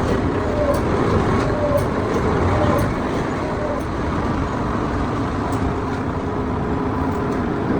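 Steady low mechanical rumble of running machinery, with a short, higher-pitched chirp about once a second during the first three seconds.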